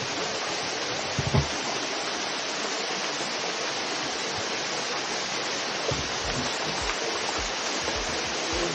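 Steady hiss of rushing water from a stream or waterfall, with a few low thumps in the last few seconds.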